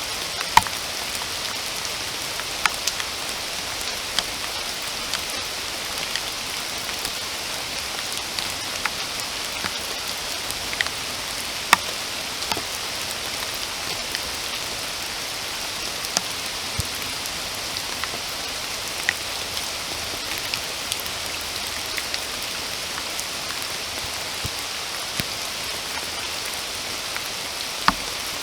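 Steady rain, an even hiss, with now and then a louder single drop landing close by.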